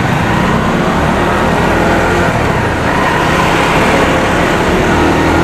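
Benelli TNT 25's 250 cc single-cylinder engine running steadily while riding in traffic, mixed with wind noise and the sound of surrounding vehicles.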